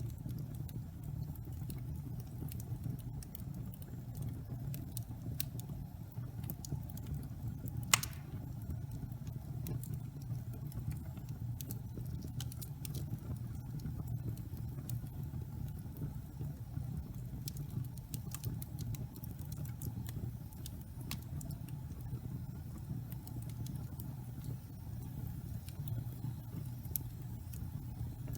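Wood logs burning in a fireplace: steady crackling, with scattered sharp snaps over a low, steady rumble of the flames. One loud pop comes about eight seconds in.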